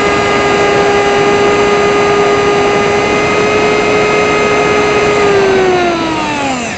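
A small electric RC plane's RCX NK1103 brushless motor and 3-inch propeller whine at a steady high pitch over a rush of air, heard from the onboard camera. Near the end the motor slows and its pitch falls away steeply as it is throttled back to glide.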